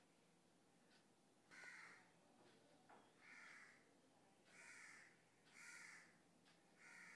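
Near silence, with five faint short bird calls spaced a second or so apart in the background.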